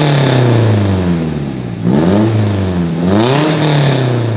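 Nissan 240SX four-cylinder engine revving through its newly fitted aftermarket exhaust with a small eBay muffler. The revs fall, then rise and drop in a quick blip about two seconds in and again a second later, settling down near the end.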